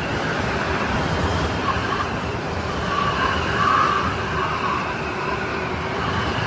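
Strong snowstorm wind blowing steadily, a rushing noise with a whistling howl that swells and fades, loudest a little past the middle.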